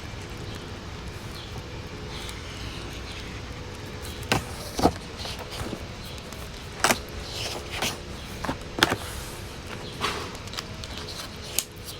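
Wood fire crackling, with irregular sharp pops over a steady low rushing background.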